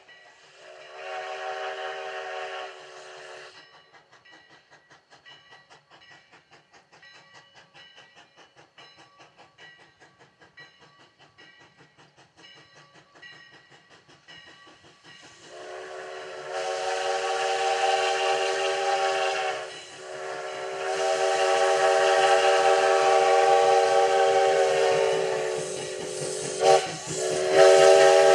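Steam locomotive Sierra No. 3, a 4-6-0, working with a steady rhythmic chuffing exhaust. It sounds a short whistle blast at the start, then long, loud whistle blasts from about halfway, broken by two brief pauses. The whistle sounds several tones at once.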